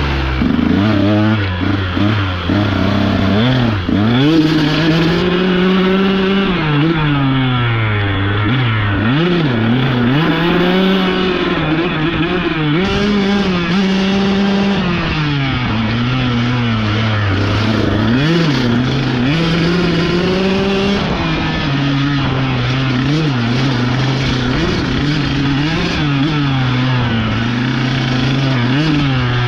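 Dirt bike engine running continuously as it is ridden along a trail, its revs rising and falling every second or two with the throttle.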